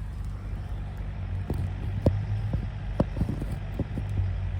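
Handling noise from a phone being picked up and set in place: a few sharp knocks and taps over a steady low hum.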